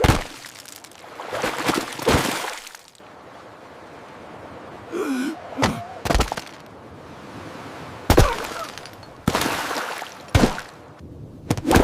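A string of sudden water-splash sound effects, with a short gasp about five seconds in: a minifigure falling into the water and flailing.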